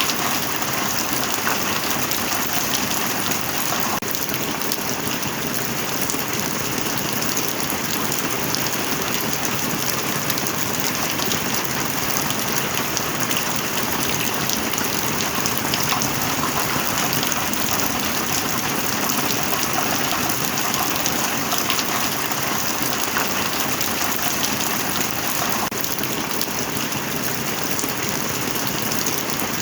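Steady heavy rain: a dense, even patter of drops that holds at one level throughout, with no thunder.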